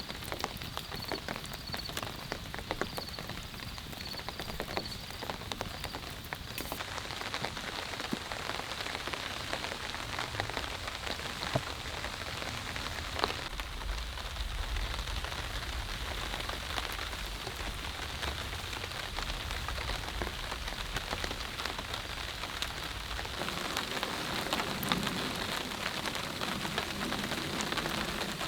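Heavy rain falling steadily, with many separate drops striking a surface. A low rumble underlies it for several seconds in the middle.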